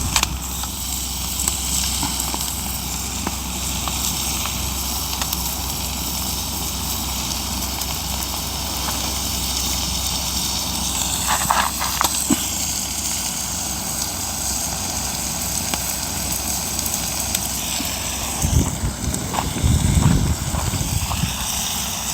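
Wood fire burning under an iron griddle, crackling steadily while sea bass and aged kimchi cook on it. A few low bumps come near the end.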